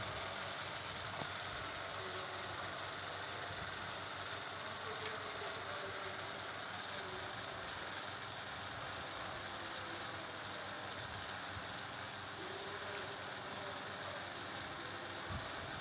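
Pet ringneck parrot nibbling peas: faint, scattered clicks every second or two over a steady background noise.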